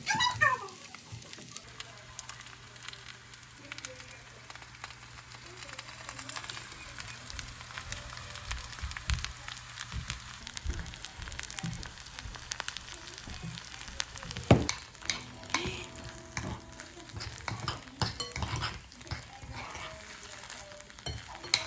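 Rice sizzling and crackling in a hot ttukbaegi (Korean earthenware pot), with scattered small clicks and one louder knock about two-thirds of the way in.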